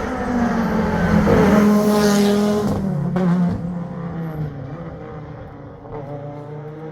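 Rally car engine revving hard as it passes close by. It is loudest in the first few seconds, then the pitch drops about three seconds in as the driver lifts off, and the engine fades as the car drives away.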